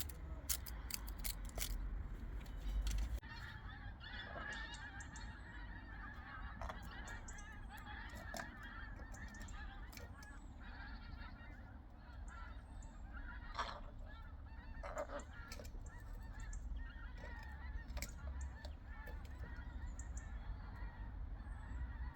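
Rook calling over and over with hoarse, nasal caws, with sharp knocks and taps here and there, over a steady low rumble.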